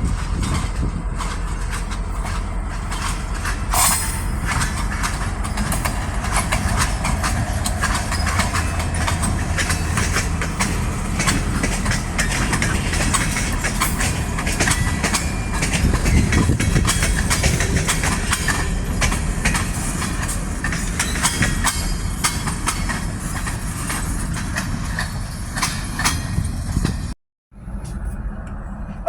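Local freight train rolling past: a steady low rumble with a dense run of sharp wheel clicks over the rail joints. The sound drops out briefly near the end.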